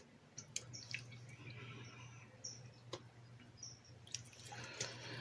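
Faint rustling and light clicks of chicken livers being tossed and coated in seasoned flour, over a low steady hum. Short high chirps come in at intervals of about a second.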